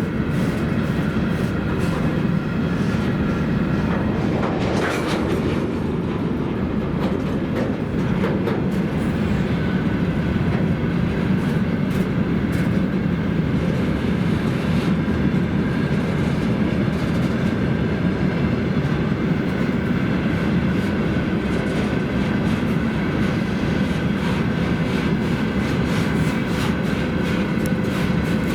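A long freight train rolling past at speed, its wagon wheels clacking over rail joints over a steady heavy rumble.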